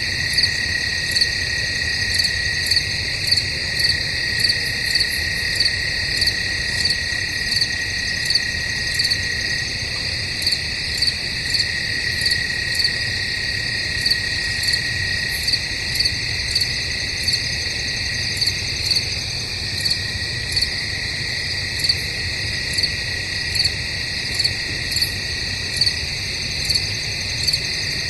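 Crickets chirping in a dense, steady chorus: a continuous high trill with a louder chirp repeating evenly, a little more than once a second.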